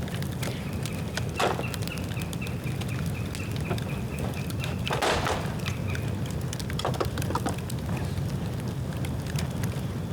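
Dry bamboo burning in a bonfire: a steady low rumble of fire with frequent sharp crackles and two louder pops, one about a second and a half in and a longer one about five seconds in. A thin, rapidly pulsing high whistle runs through the first six seconds or so.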